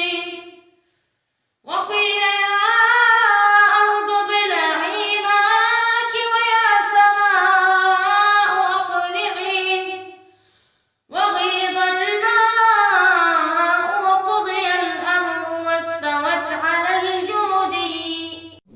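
Quranic recitation by a single high voice, chanted with tajwid in two long, ornamented melodic phrases with a short breath pause between them.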